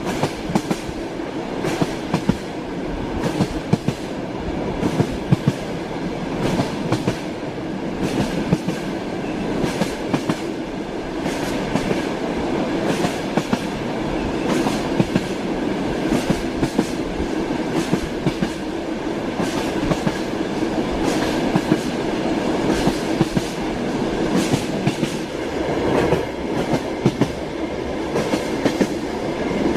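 Train wheels clattering over the rail joints, heard from inside a moving passenger carriage: a steady rumble with frequent sharp knocks.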